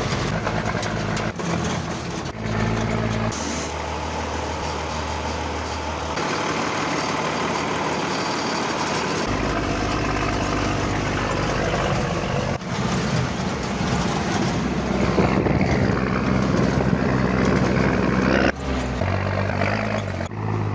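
REO 6x6 truck's engine running under way, a steady low drone under a broad rushing noise, its pitch stepping abruptly to a new note several times.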